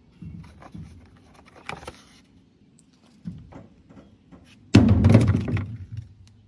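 Scattered light clicks and knocks, then about three-quarters of the way in a loud burst of rattling, scraping handling noise lasting under two seconds.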